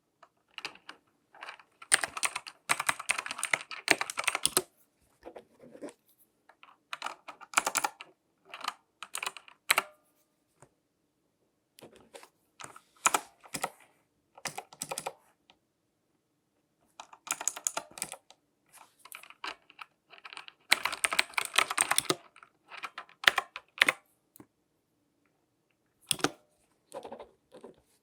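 Bursts of rapid light tapping and clicking, close to the microphone, with short pauses between the bursts.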